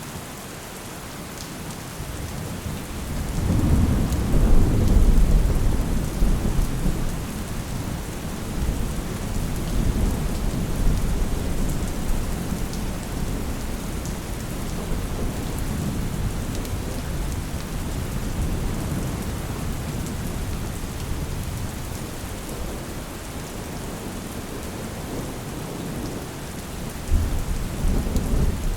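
Steady rain with rolling thunder. A long, deep rumble builds about three seconds in, is loudest around five seconds, then trails off slowly under the rain, and another rumble starts near the end.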